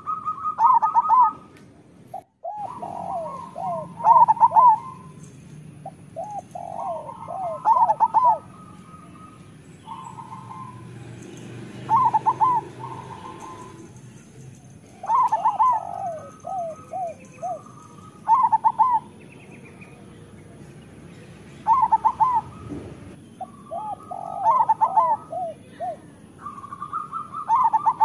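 Zebra doves (perkutut) cooing: phrases of short, rhythmic coos about every three to four seconds. About two seconds in, the sound cuts out for a moment.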